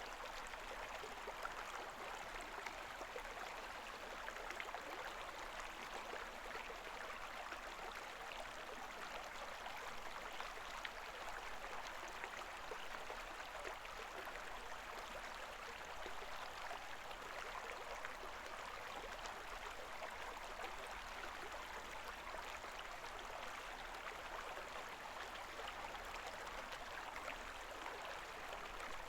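A shallow river babbling steadily, a continuous rush of water dotted with small splashes and trickles.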